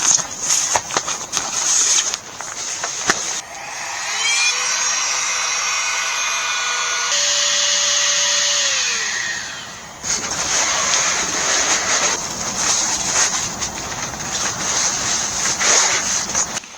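A small motor whirring for about six seconds, rising in pitch as it starts, stepping up once and dropping away as it stops, with knocking and rustling of gear being handled before and after.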